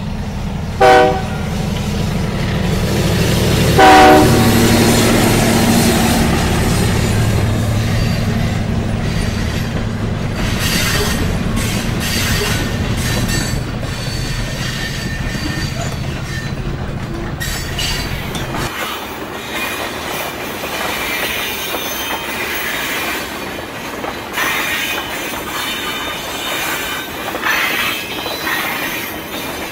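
A diesel locomotive horn sounds two short blasts, about one second and four seconds in, over the steady rumble of a running freight train. The low rumble drops away about two-thirds of the way through, leaving clattering wheel and rail noise.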